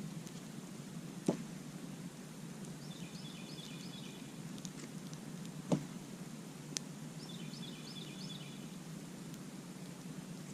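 Campfire burning with a steady low rush and sharp crackling pops: three stand out, about a second in, and twice more a second apart past the middle. Twice, a bird gives a short run of quick high notes.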